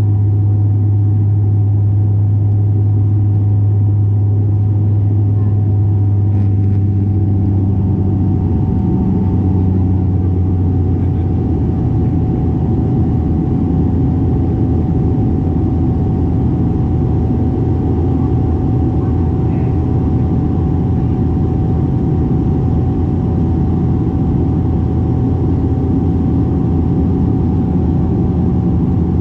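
De Havilland Canada Dash 8-400 turboprop engines and propellers droning loudly and steadily, heard inside the cabin, with a thin steady whine above the drone. The low propeller hum shifts about ten seconds in.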